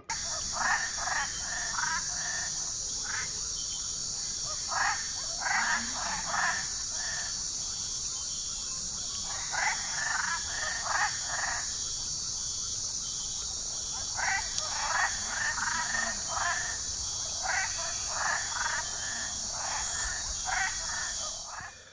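Frogs calling in repeated bursts of rapid pulsed notes over a steady, high-pitched insect drone, a tropical rainforest night-type chorus.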